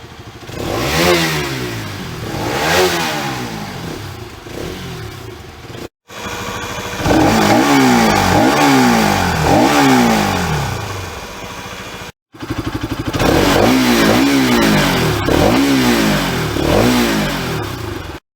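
Bajaj Pulsar RS200 single-cylinder engine being revved repeatedly while standing, each blip rising in pitch and falling back toward idle. The sound comes as three short takes joined by abrupt cuts, with two to four revs in each.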